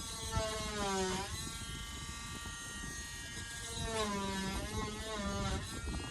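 Small handheld electric power tool running with a steady whine; its pitch sags briefly about a second in and again for a longer stretch near the end, as the tool bogs under load while cutting.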